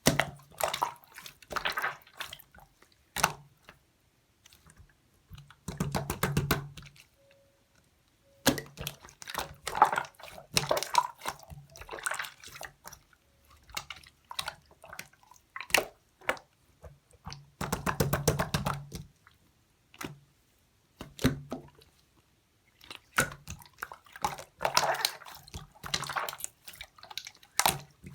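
Slime being squished and pressed by hand, giving wet clicking and popping sounds in irregular bursts of a second or so, with short pauses between.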